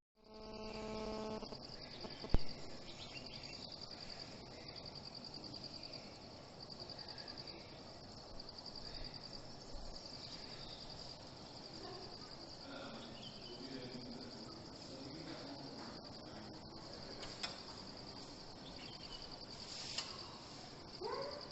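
Crickets trilling steadily, a high pulsing chirr. A short steady humming tone sounds in the first second or so, and a single sharp click comes about two seconds in.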